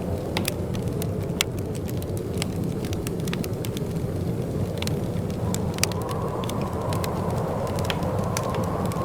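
Fireplace fire crackling, with frequent sharp, irregular pops over a steady low rumble.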